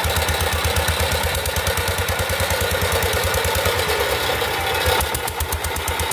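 Power tiller engine chugging steadily with a rapid, even beat while ploughing, easing slightly about five seconds in.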